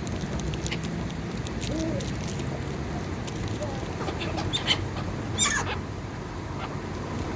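A flock of birds crowding round for food, calling now and then over a steady background hum, with two short sharp calls about four and a half and five and a half seconds in.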